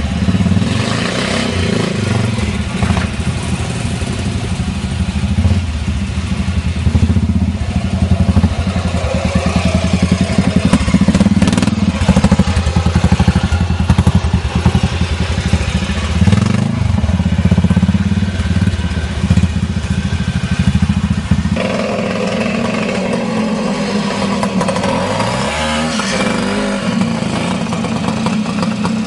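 Classic trials motorcycle engine running and revving up and down, the throttle rising and falling. About two-thirds of the way through, the deep low note drops away and a thinner, higher engine sound remains.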